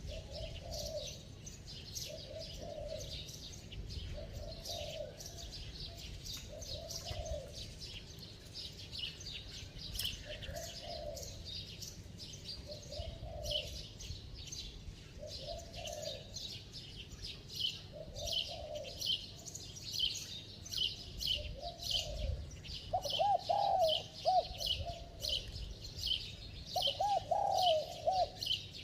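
Spotted dove cooing: short low coos repeat about every second and a half, then turn louder and come in quicker runs of arched notes from about two-thirds of the way in. Small birds chirp continuously at a higher pitch.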